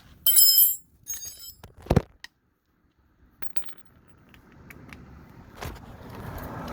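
Metal hand tools clinking and ringing, two quick clatters in the first second and a half, then a single knock about two seconds in. Over the last few seconds a steady background noise slowly grows louder.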